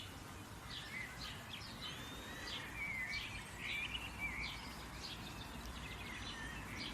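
Songbirds chirping and singing in short repeated notes and a few gliding whistles, over a steady background hiss.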